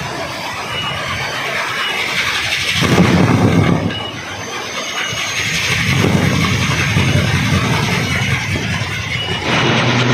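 Kolecer, a Sundanese wind propeller, spinning in the wind with a loud whirring drone that swells and eases as the gusts come and go.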